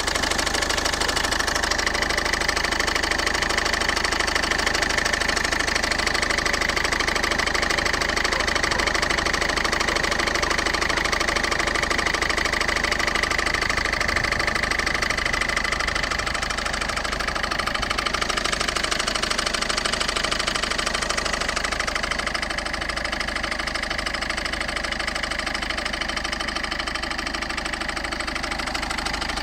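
Citroen C3's 1.4 HDi four-cylinder turbodiesel running steadily at idle with a rapid knocking clatter and a high steady whine, the abnormal noise the owner is trying to trace. The whine is loudest in the first half and eases off after about 17 seconds.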